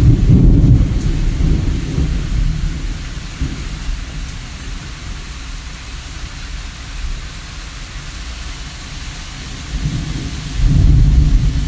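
Steady rain with low rumbles of thunder. A loud rumble at the start dies away over the first few seconds, leaving the rain hiss, and another rumble swells up near the end.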